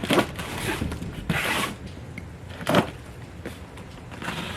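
A small parts box being opened and unpacked by hand: irregular rustling, scraping and ripping of packaging in several short bursts.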